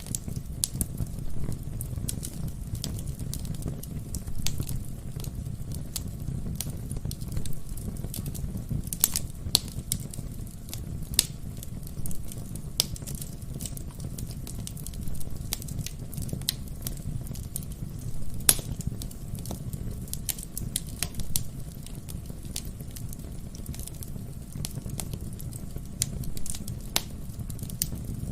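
Wood fire burning in a fireplace, crackling with irregular sharp pops over a low, steady rumble of the flames. One of the loudest pops comes about two-thirds of the way through.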